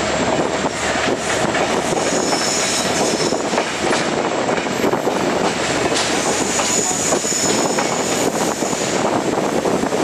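Steady rumble and clatter of a moving passenger train's wheels on the rails, with a faint high squeal twice.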